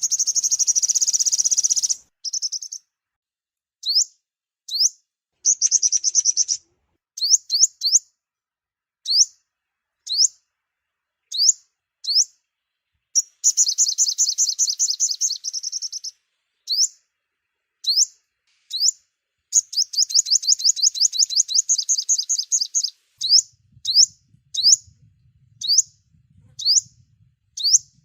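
Sunbird calling: sharp, high chirps that sweep upward, mostly single and about a second apart, broken by fast rattling runs of chirps lasting one to three seconds.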